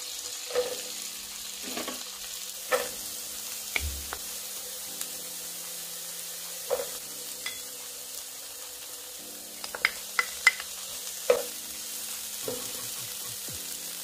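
Diced onion, celery and red sweet pepper sizzling steadily as they fry in a nonstick frying pan, with scattered clicks and knocks as the pan is stirred.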